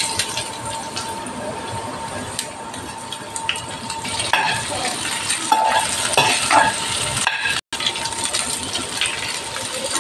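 Chopped garlic, sliced onion and green capsicum sizzling in hot oil in a frying pan, with a steel spoon scraping and clinking against the pan now and then as it is stirred.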